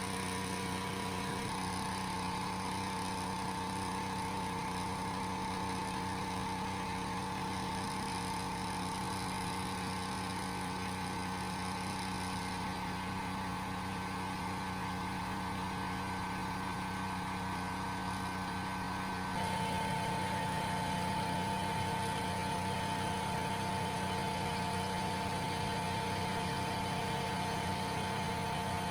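Restored 2 HP air compressor running, a steady motor-and-pump hum with a whine over it. About two-thirds of the way through, the whine steps up slightly in pitch and the sound gets a little louder, then holds steady.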